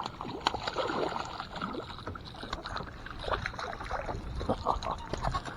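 Irregular water splashing with small knocks against a small boat's hull as a hooked smallmouth bass is landed.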